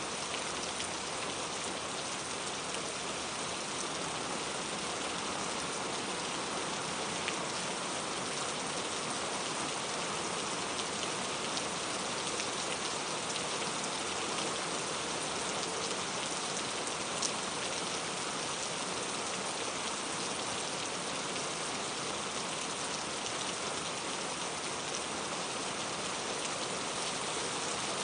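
Steady rain falling, an even hiss of many drops with a few louder drips here and there.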